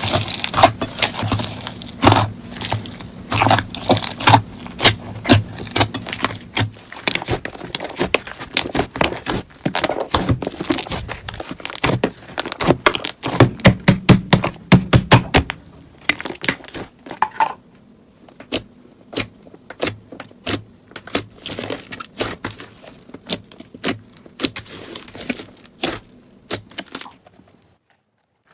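Slime being squeezed and worked by hand, a dense run of small crackling pops and clicks. About halfway through it thins to sparser, sharper clicks, and it cuts out briefly near the end.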